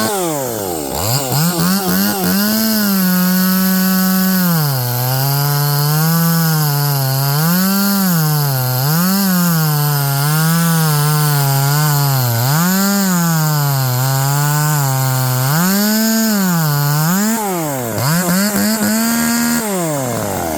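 Small Zenoah two-stroke chainsaw running on a test after repair of a no-start fault (faulty switch replaced, new spark plug, air filter cleaned). The throttle is blipped again and again, so the engine note rises and falls about once a second. It drops low just after the start and again near the end.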